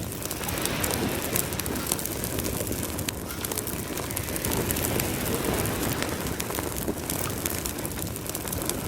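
Campfire crackling, with frequent sharp pops and snaps, over a steady low rumble.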